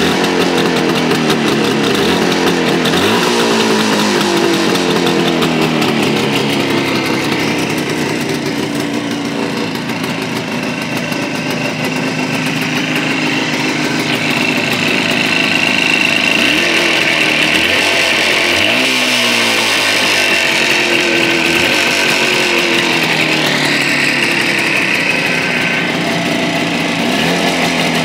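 Jawa 350 type 638's two-stroke twin-cylinder engine running at idle. The throttle is blipped a few times, so the revs rise briefly and fall back each time.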